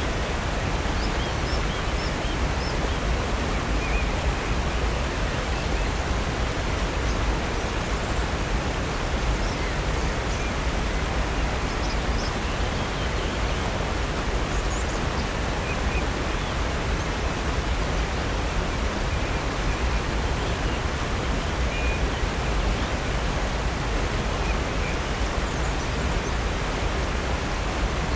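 Steady rushing of water from a 65-foot waterfall on a creek, an even, unbroken roar. A few faint, short, high chirps are scattered over it.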